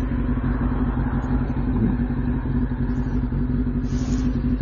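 2006 Kawasaki Ninja ZX-6R 636's inline-four engine running at a steady, unchanging speed.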